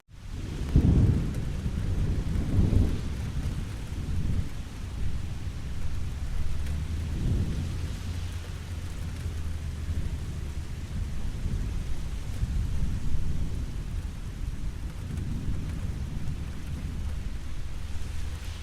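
Steady rain falling, with low rolling thunder rumbling through it, loudest about a second in and again near three seconds, with weaker rolls later.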